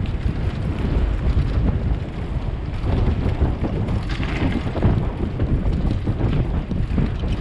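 Wind buffeting the microphone of a camera riding along on a moving bicycle: a steady, heavy low rumble.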